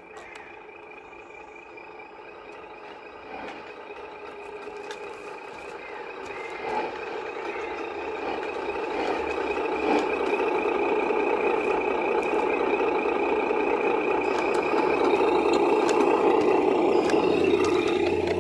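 Radio-controlled Tamiya MAN scale truck driving, its mechanical running sound growing steadily louder for several seconds and then holding, with a few faint clicks.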